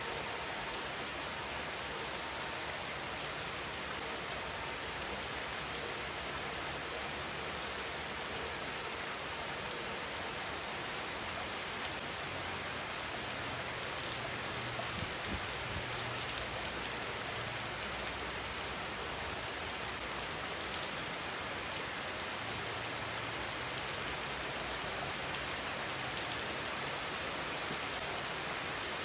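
Steady rain falling, a dense even hiss of many drops hitting surfaces.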